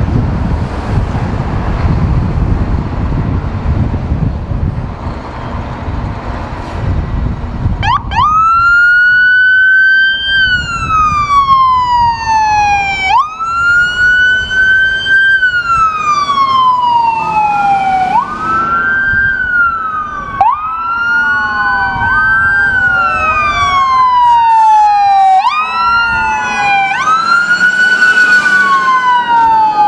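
Emergency vehicle sirens wailing, each cycle rising quickly in pitch and then falling slowly over about five seconds. Low rumble comes first, the siren starts about eight seconds in, and a second siren joins out of step around eighteen seconds in.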